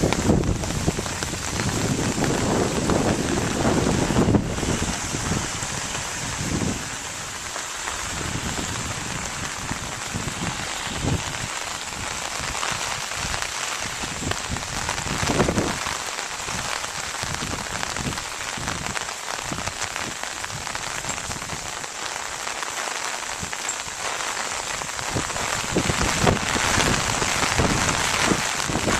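Steady rain falling, a dense even hiss, with irregular low rumbles on the microphone that are heaviest in the first few seconds and near the end.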